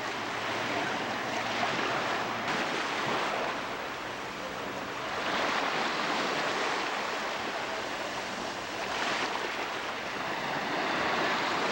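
Sea surf washing on a beach: a steady rushing noise that swells and eases every few seconds.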